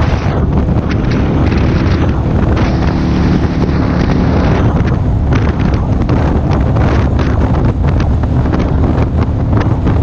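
Heavy wind buffeting on a helmet-mounted action camera's microphone at riding speed, with a motorcycle engine running underneath. The engine's steady note comes through more clearly a few seconds in.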